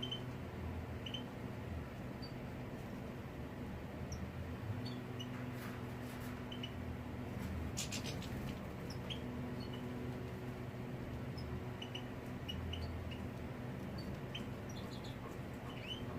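Faint, scattered short chirps of small birds over a steady low hum, with a few soft clicks around the middle.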